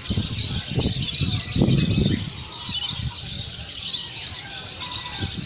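Dense chorus of many songbirds chirping at once, a steady high twittering, with a few low knocks and bumps in the first two seconds.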